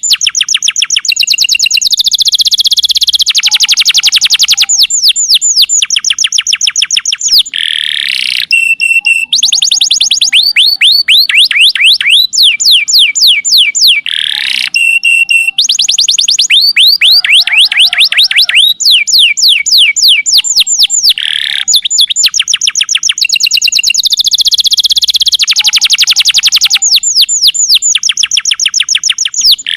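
Domestic canary singing a long, loud song of rapid trills, each a fast run of repeated downward-sweeping whistled notes, with brief breaks between phrases.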